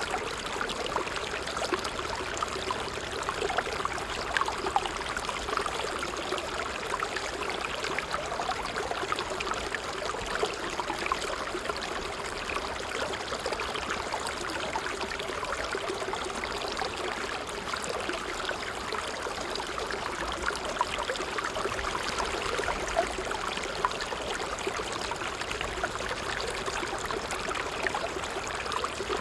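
Water trickling steadily, with many small quick splashes and bubbles, like a small stream running over stones.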